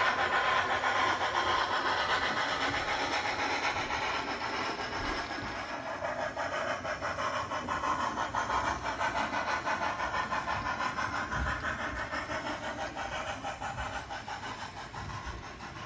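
Model train running along the layout track with a dense, rapid rattling hiss that slowly fades as it moves away.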